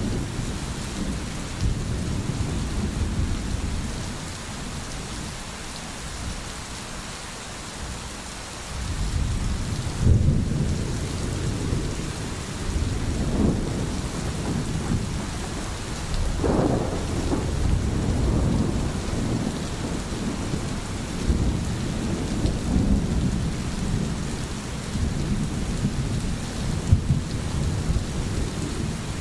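Steady rain with low, rolling thunder rumbling under it. The rumble dies down for a few seconds, then swells again about nine seconds in and keeps rolling.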